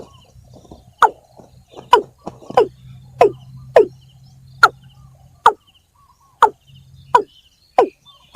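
Watercock giving a long run of short, sharp calls, each a quick falling note, a little over one a second.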